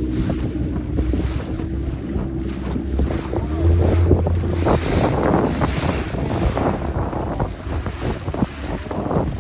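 Wind buffeting the microphone over the rumble and splash of a boat moving on the water.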